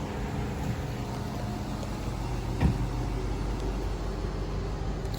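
A parade vehicle's engine running at low speed, a steady low hum, with one short knock about two and a half seconds in.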